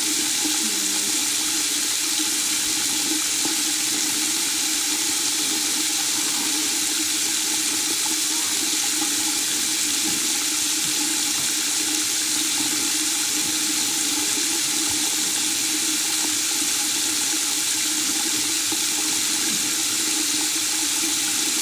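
Steady white noise: an unbroken, even rushing hiss, strongest in the high range, that does not change in level.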